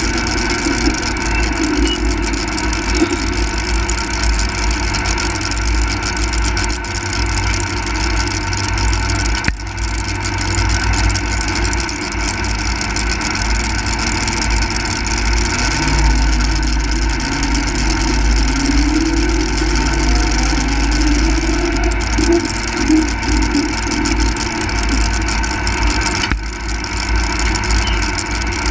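Single-engine modified pulling tractor's engine running steadily, with one tone rising in pitch about two-thirds of the way through.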